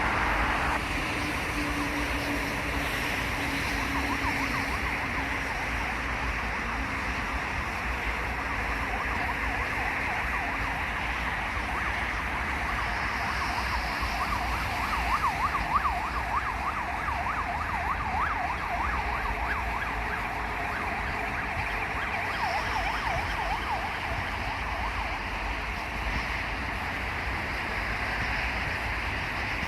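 Steady outdoor background noise, a hiss with a low rumble underneath, with a run of short, repeated high sounds in the middle.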